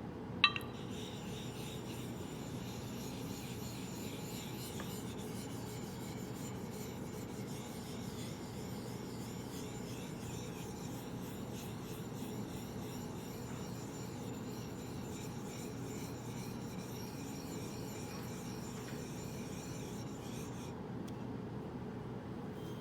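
A straight razor's blade is stroked back and forth across a whetstone in honing, giving a repeated steady scraping rub. A sharp click comes about half a second in, and the strokes stop near the end.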